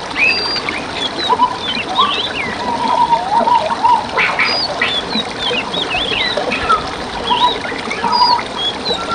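Several songbirds singing at once, a busy run of quick whistles, chirps and twittering notes, over the steady rush and trickle of a forest stream.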